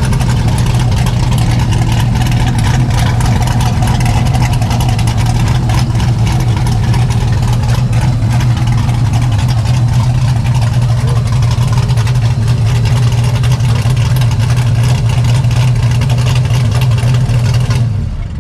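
A car engine idling steadily, a loud, even low drone.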